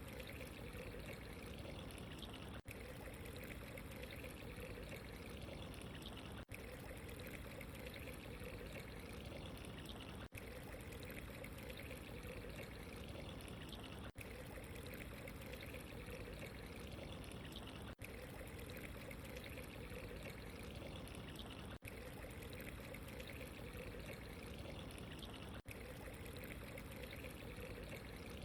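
Steady running water, trickling and pouring, with a split-second drop in level about every four seconds.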